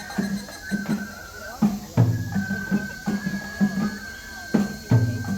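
Festival music for a shishimai lion dance: a high flute holds long notes over taiko drums beating a steady rhythm, with a heavier drum stroke about every three seconds.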